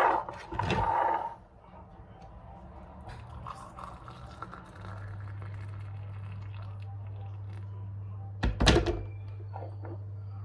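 Household handling knocks, then a small appliance motor starting up about five seconds in and humming steadily, with one loud thunk near the end.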